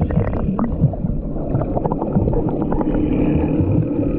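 Jet ski running on open water, a loud steady rumble of engine and churning water with many small crackles. A faint steady engine hum shows through near the end.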